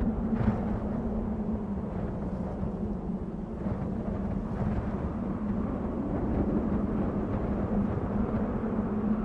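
Desert wind blowing steadily: a continuous low rush of noise, with a few faint brief gusts on top.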